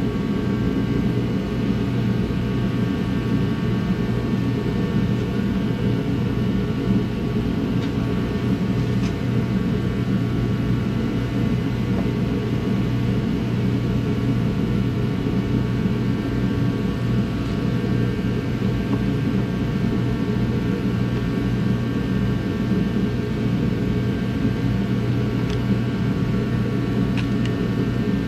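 A motor or fan running steadily, with a constant low drone and rumble and several faint steady higher tones, and a few faint clicks.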